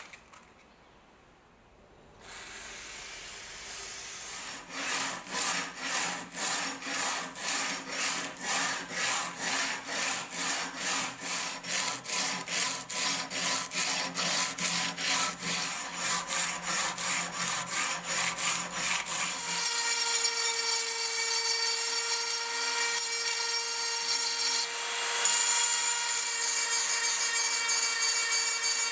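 Back-and-forth hand strokes of an abrasive (file or sandpaper) on the bayonet's steel, about two strokes a second. About twenty seconds in, the strokes give way to the steady hum of a small electric power tool running.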